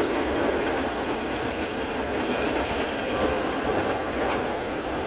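Green Line Express passenger train running along the track, heard from inside a carriage: a steady rumble of wheels on rail with a few faint clicks.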